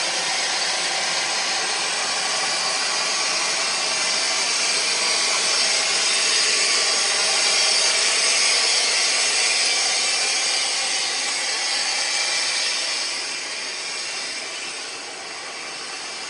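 A train at the platform gives off a steady, loud hiss that swells around the middle and eases off in the last few seconds.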